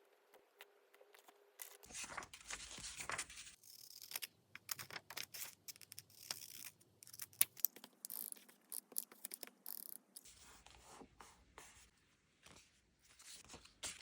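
Paper and stickers being handled at close range: a stretch of rustling about two seconds in, then a dense run of small clicks, taps and light scrapes.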